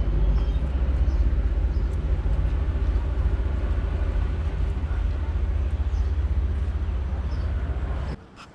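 Silver Fern diesel railcar's V12 Caterpillar engine running with a steady low rumble, which cuts off abruptly near the end.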